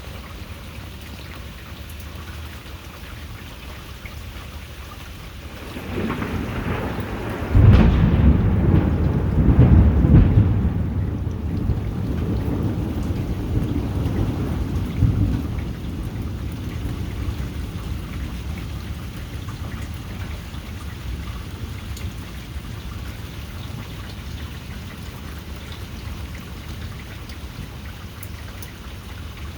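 Steady heavy rain with a long peal of thunder. The thunder builds about six seconds in, cracks loudest a couple of seconds later, then rumbles and fades over the next several seconds.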